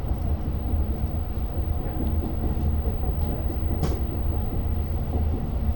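Steady low rumble of a Long Island Rail Road train heard from inside a passenger coach, with one sharp click about four seconds in.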